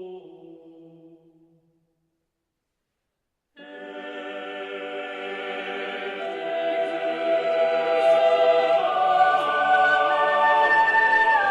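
Choral music with long held notes fades away, then after about two seconds of silence a new choral passage begins abruptly and swells louder.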